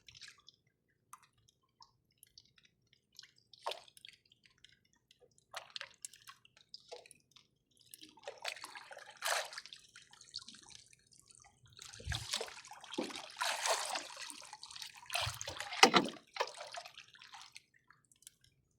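Water dripping and splashing in short, scattered bursts. The splashing comes thicker about halfway through and again near the end.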